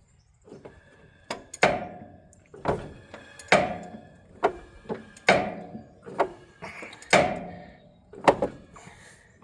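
Repeated metallic clunks, each with a short ring, roughly one a second, as the Allis-Chalmers 7010's inline-six engine is turned over by hand on the crankshaft to bring number 6 cylinder to valve crossover.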